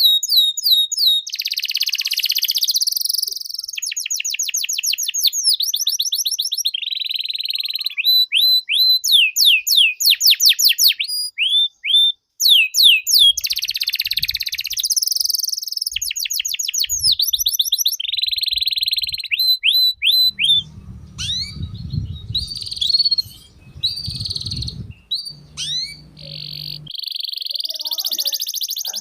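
Canary singing a long, varied song of fast trills and rolling series of quickly repeated notes, some sweeping in pitch, with short pauses between phrases.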